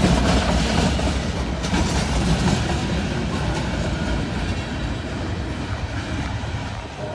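Freight train rolling past: a steady rumble of wheels on rail with clickety-clack over the rail joints, easing off slightly toward the end.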